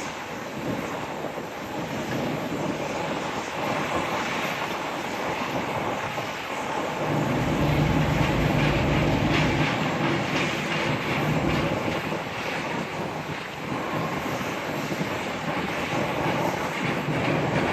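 Rolls-Royce Trent 1000 jet engines of a Boeing 787-9 running at low thrust as the airliner moves off the stand, a steady jet noise. A deeper rumble swells for several seconds midway through.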